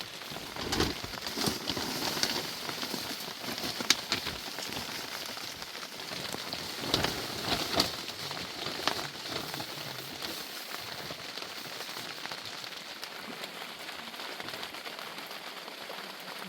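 Steady rain falling, with scattered louder taps and knocks, several in quick succession about a second in and again around seven to eight seconds in.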